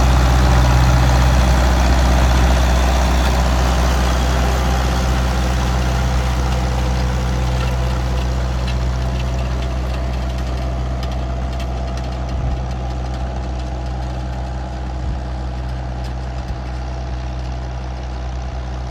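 Tractor engine running steadily, growing gradually quieter, with light scattered clicks in the second half.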